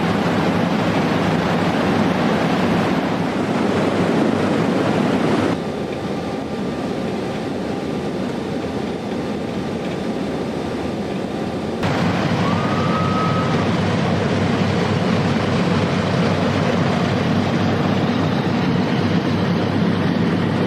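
The four Pratt & Whitney R-4360 radial piston engines of a Boeing C-97 Stratofreighter running in a loud, steady drone. The sound drops abruptly about five seconds in and comes back up just as abruptly about twelve seconds in.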